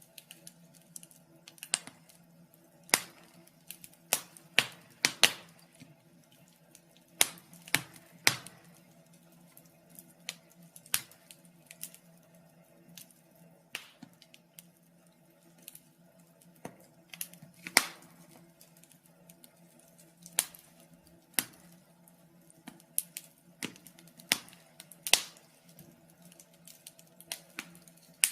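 Wood fire burning in a fireplace, crackling with irregular sharp pops and snaps, about one or two a second, some much louder than others, over a faint steady low hum.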